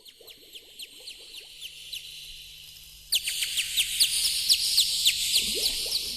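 Birds chirping: many quick, high, falling chirps over a steady high hiss, turning abruptly louder about three seconds in.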